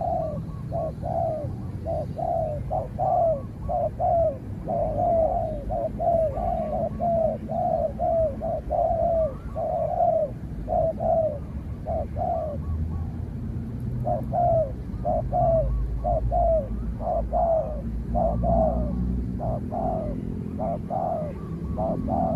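Spotted doves cooing: a long run of short, quick coo notes repeated about two to three a second with a few brief pauses, over a low rumble.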